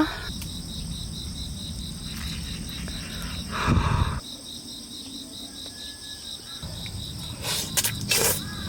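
Insects chirping in a steady high pulse, about four a second, with a few short noisy sounds, one about four seconds in and several near the end.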